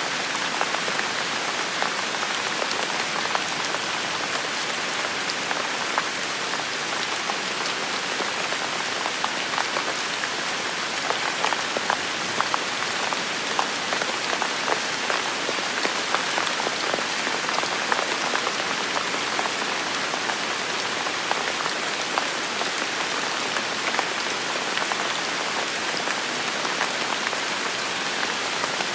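Heavy rain falling steadily, a dense even hiss full of many small drop impacts.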